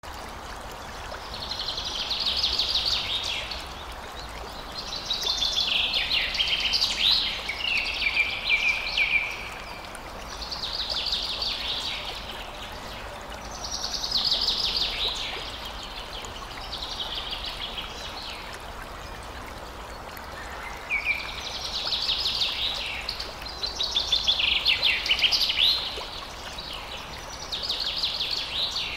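A songbird singing high, rapid trilling phrases, about eight of them, each two to four seconds long with short pauses between. A steady rushing background noise sounds under the song throughout.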